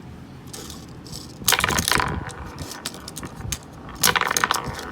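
Small plastic B-Dama marbles clattering against each other and the plastic magazine of a B-Daman toy: two quick bursts of rapid clicks, about a second and a half in and again about four seconds in.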